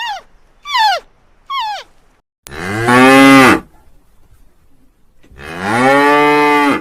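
A cow mooing twice, each moo long and low, the second louder and running on to the end. Before the first moo there are three short, high calls that fall in pitch.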